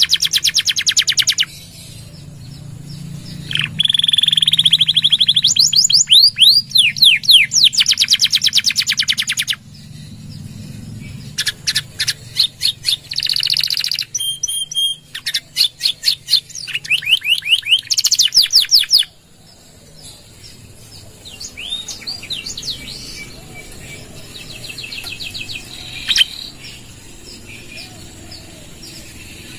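Domestic canary singing vigorously: loud, very fast trills and rolled phrases, including one roll held for about six seconds and runs of rapid repeated notes. About two-thirds of the way through, the song drops to quieter, scattered chirps and short trills.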